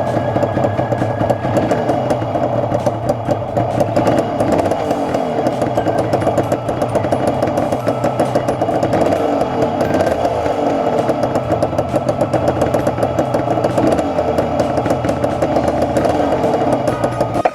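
Air-cooled conversion of a Yamaha TZR250 1KT two-stroke parallel-twin engine running steadily on its test run, with the revs wavering a little now and then.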